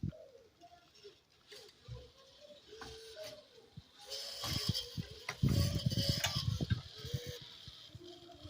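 Radio-controlled toy tractor's small motor and gears whining in short runs that start and stop, with scattered clicks and a louder clattering spell a little past the middle.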